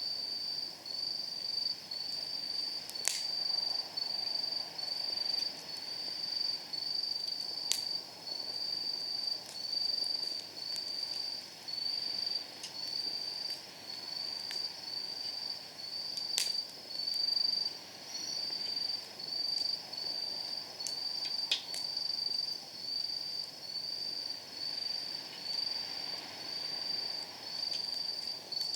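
Night insects chirping in a steady high-pitched rhythm, a little over one chirp a second, with a few sharp pops from burning firewood crackling in a campfire.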